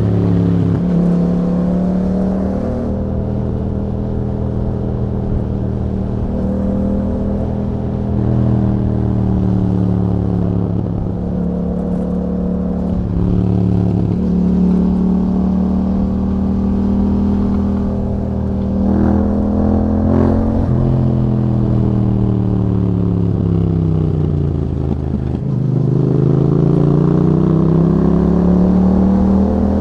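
Yamaha MT-07's parallel-twin engine through an Akrapovic exhaust, revving up and easing off again and again as the bike is ridden, its pitch rising and falling with throttle and gear changes. Near the end the pitch drops low and then climbs steadily.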